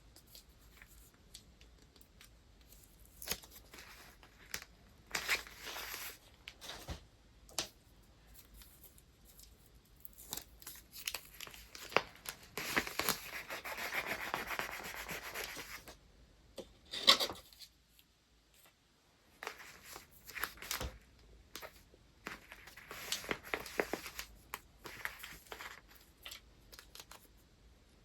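Paper being handled for gift wrapping: sheets rustling, crinkling and rubbing in short bursts, with a longer stretch of steady paper rubbing near the middle and a single sharp click just after it.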